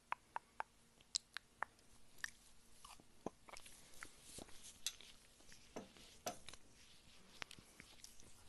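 Faint, close-miked eating sounds: a few sharp clicks in the first two seconds, then a busier run of crunchy chewing.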